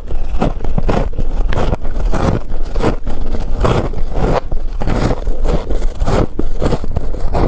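Freezer frost being bitten and chewed close to the microphone: a steady run of crisp crunches, about two to three a second.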